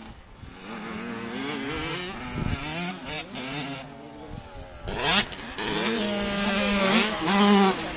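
Dirt bike engines revving up and down, their pitch rising and falling with the throttle, loudest about five seconds in and again near the end.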